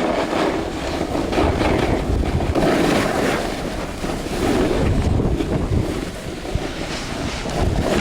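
Wind buffeting the microphone over the rushing hiss of a rider descending through deep powder snow, the rush swelling and easing as the turns go.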